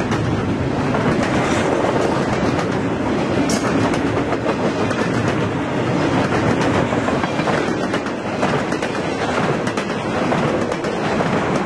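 Double-stack intermodal freight cars rolling past close by: a steady rumble with wheel clatter.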